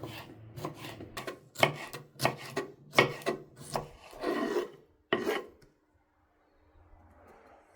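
Rhythmic scraping strokes, about two a second, on a wooden surface, stopping about five seconds in.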